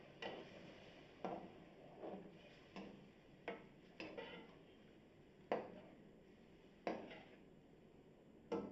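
Faint, irregular clinks and knocks of kitchen utensils against a metal kadhai, about one a second with longer gaps, and a quick cluster of knocks near the end.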